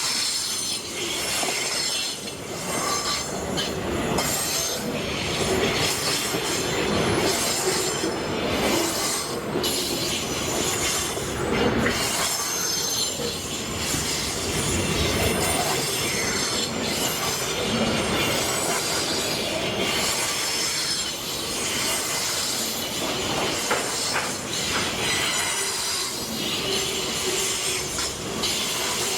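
Freight train wagons rolling past steadily, with high-pitched steel wheel squeal over the rumble and clacking of the wheels on the rail joints.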